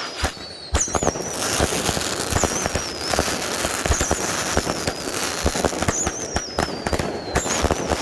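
Consumer fireworks cakes firing: a dense run of bangs and crackling, with several high whistles that waver and fall in pitch.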